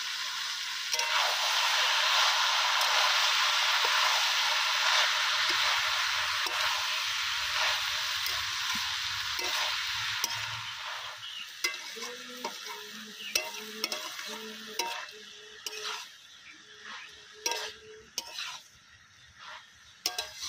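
Chopped banana flower frying in hot oil in a pan: a loud sizzle starts about a second in, holds for about ten seconds and then dies down, while a spatula stirs and clicks against the pan.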